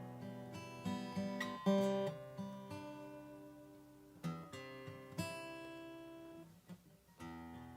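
Acoustic guitar music: plucked and strummed chords, with a brief pause about seven seconds in.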